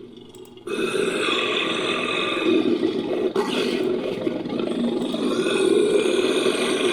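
Designed monster sound effect: a long, rough creature roar made by layering animal and monster roars. It starts abruptly after a brief silence and shifts in character about halfway through.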